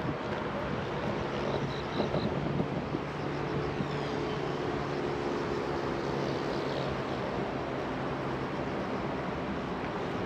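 Steady city road traffic noise with a low engine hum running through it. Three short high peeps sound close together about two seconds in.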